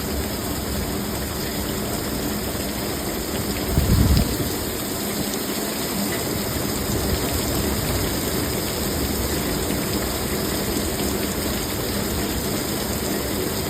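Heavy rain pouring down steadily in a severe thunderstorm, with a brief low thump about four seconds in.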